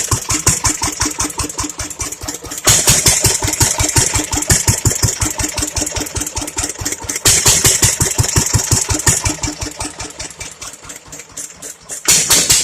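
1936 International Harvester LA single-cylinder stationary engine, warmed up and running low at slow speed: a steady run of even beats. About every four and a half seconds the beats swell louder and brighter, then fade back.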